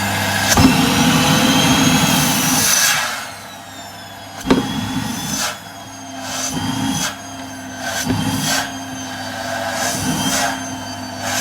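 Vacuum cleaner running with a steady motor whine, its nozzle sucking against tights and bare skin in repeated rushes of air, the whine shifting in pitch as the intake is blocked and freed.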